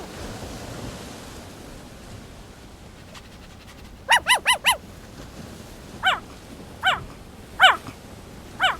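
A puppy yipping: a quick run of four high yips, then four single yips about a second apart, each dropping in pitch.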